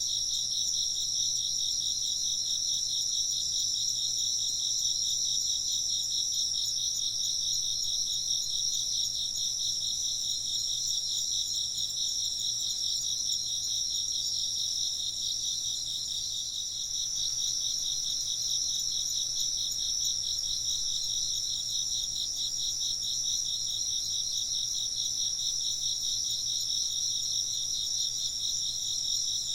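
A steady chorus of chirping insects, several trilling at once in high, rapid, pulsing chirps that never let up.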